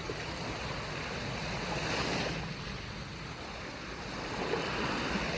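Waves washing on a shore: a steady rushing noise that swells about two seconds in and again near the end.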